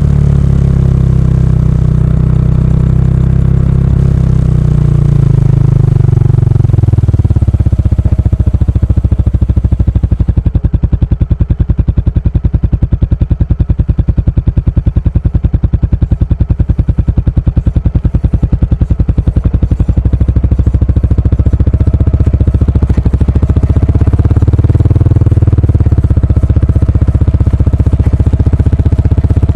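Kawasaki Estrella's 250 cc air-cooled single-cylinder engine through a stock muffler with its baffle removed. The revs fall over the first several seconds and settle into a slow, even low-rpm beat for about ten seconds, then climb again near the end.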